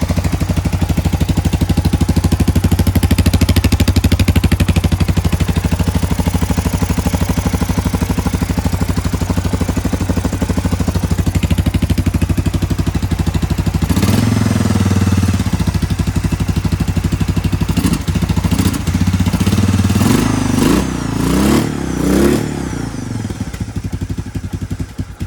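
A 1987 Honda 250SX engine running on its first start: a steady idle that rises about halfway through into uneven blips of the throttle and revving. It runs irregularly, which the builder traced to a cracked plastic intake.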